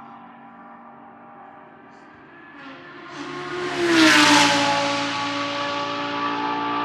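A GT3 race car's engine note fades away, then another GT3 car approaches and passes about four seconds in. Its engine note drops in pitch as it goes by, then holds steady as it pulls away.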